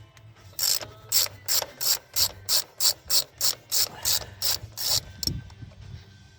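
Quarter-inch drive hand ratchet ratcheting in about a dozen quick, even strokes, roughly three a second, stopping about five seconds in.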